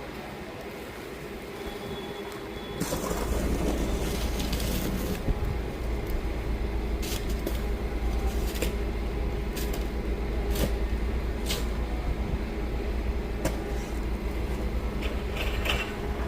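A large vehicle's engine running steadily, with wind buffeting the microphone from about three seconds in and a few sharp clicks.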